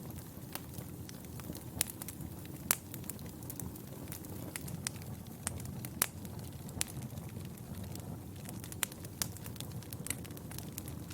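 Fire burning in a fireplace, crackling with irregular sharp pops over a steady low rumble of the flames. The loudest pops come about a third of the way in and about halfway through.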